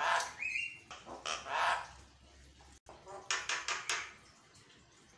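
Javan myna (jalak kebo) calling in harsh, chattering squawks with a brief whistled note mixed in. A quick run of rasping notes follows a short pause.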